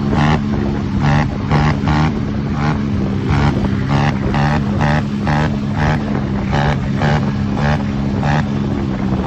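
Small motorcycle engines running steadily, with short, repeated rises in engine noise about once or twice a second.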